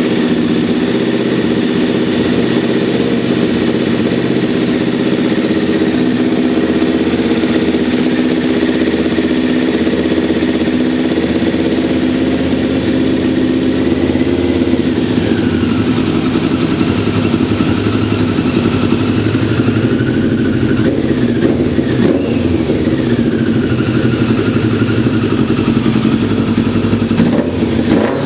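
Kawasaki ZZR1100 C's inline-four engine running steadily, with a higher whine above it that falls and rises in pitch a few times in the second half. The bike is being woken after a long lay-up.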